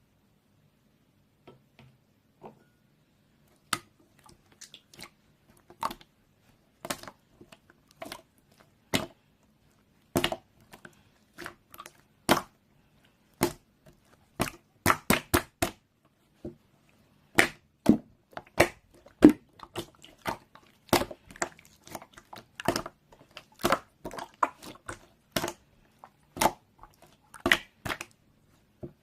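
Slime being squeezed and pressed by hand, giving irregular sharp clicks and pops. They are sparse at first and come thick and fast over the second half.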